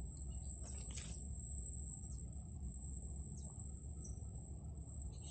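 Outdoor ambience: a steady high-pitched insect drone with a steady low rumble underneath and a few faint bird chirps.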